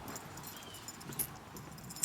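A dog crunching about in snow: a scatter of faint crunches and ticks.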